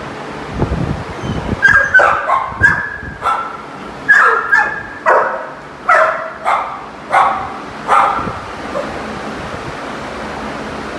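A dog barking repeatedly in short, high yips, about a dozen of them, starting a second or two in and stopping a few seconds before the end.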